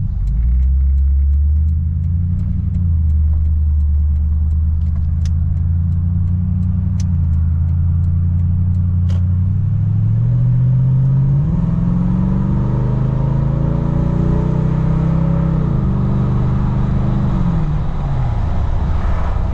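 Toyota Tundra's 5.7-litre iForce V8 running through a Flowmaster muffler while driving: a low, steady exhaust note, then the pitch climbs as the truck accelerates about halfway through, holds, and drops again near the end.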